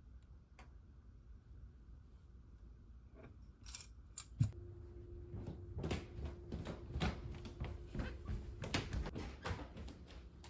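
Quiet handling sounds: after a few seconds of low hum, a run of small clicks, taps and knocks, with one sharper knock about four and a half seconds in.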